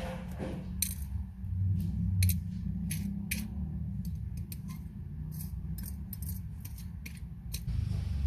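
Small metal watchmaking tools and tiny movement parts clicking and tapping against each other, about fifteen light, irregular clicks, over a steady low background rumble.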